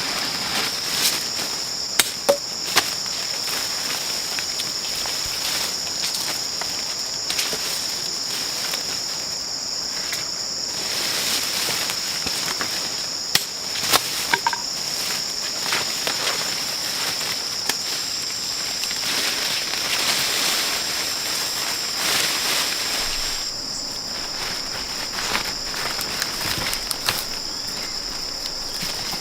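Rainforest insects droning in a steady high-pitched chorus, with a few sharp knocks, three close together about two seconds in and two more near the middle.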